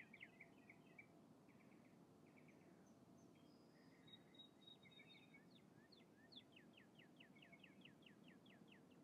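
Faint outdoor ambience with a songbird singing: scattered chirps, then a fast trill of repeated down-slurred notes, about five a second, through the last few seconds.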